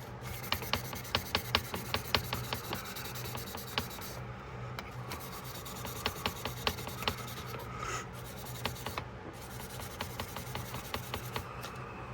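Hand abrasive scrubbing the metal of a vintage Case XX jackknife: quick, short scraping strokes that come in runs with brief pauses, over a steady low hum.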